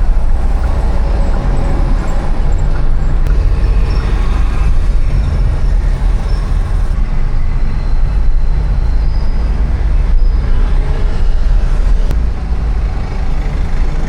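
City street traffic: a steady low rumble of passing vehicles and road noise.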